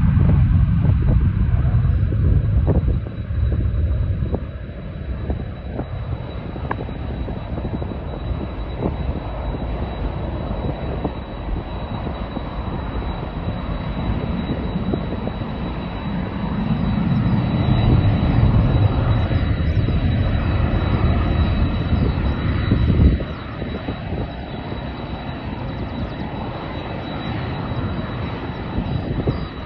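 Jet airliner engine noise: a continuous rumble with a thin steady high whine, swelling about sixteen seconds in and dropping off suddenly about twenty-three seconds in.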